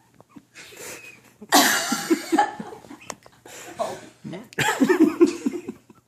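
A woman coughing and gasping, with two loud coughing bouts, the first about a second and a half in and the second near the end, from the burn of eating habanero peppers.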